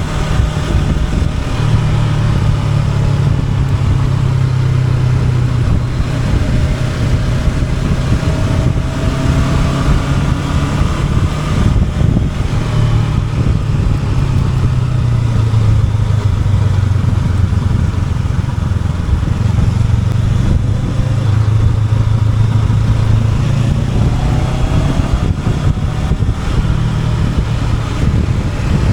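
Honda NX500 parallel-twin motorcycle engine running under way, its note rising and falling a few times with the throttle.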